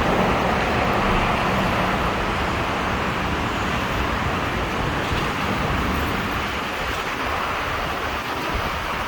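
Steady street traffic noise, an even hiss with an uneven low rumble underneath from wind on the microphone.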